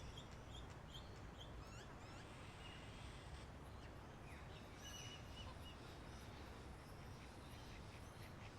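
Faint birdsong: short high chirps and quick falling notes, thickest in the first few seconds and sparser after, over a steady low outdoor rumble.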